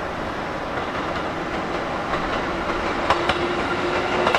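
Electric train running past at a station platform, with a steady, slowly growing rumble. Its wheels clack over rail joints about three seconds in, and a steady low hum comes in over the last couple of seconds.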